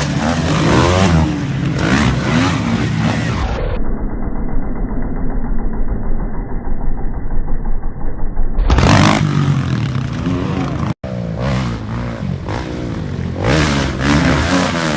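Motocross bike engines revving, the pitch rising and falling as they accelerate and shift. For a few seconds in the middle the sound is muffled with the highs cut off, and it drops out for an instant about eleven seconds in.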